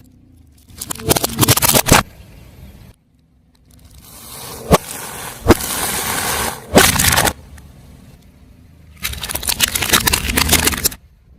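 Crunchy objects being crushed under a car tyre: three bursts of crackling and crunching, the middle one with sharp single cracks.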